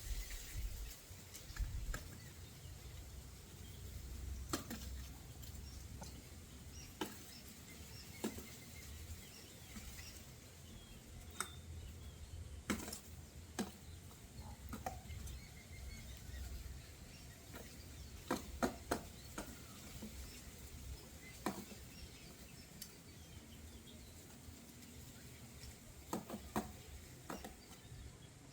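Birds moving about: irregular taps, clicks and scuffles of feet, beaks and wings, a few quick clusters of taps, and some faint short chirps, over a low rumble.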